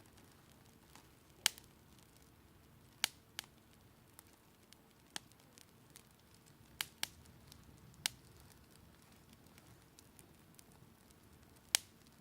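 Wood campfire crackling, with sharp pops at irregular intervals, half a dozen of them much louder than the rest.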